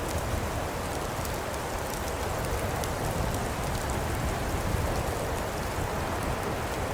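Birchwood fire crackling in a fireplace: a steady low rush of burning with many small scattered pops and ticks.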